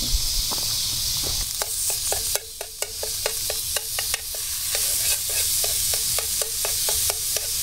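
Ground deer and pork sausage sizzling in a cast-iron frying pan while it is browned, with a utensil knocking against the pan a few times a second as the meat is broken up and stirred, starting about a second and a half in.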